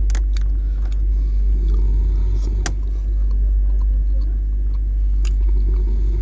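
Passenger train in motion: a steady low rumble with scattered sharp clicks and rattles.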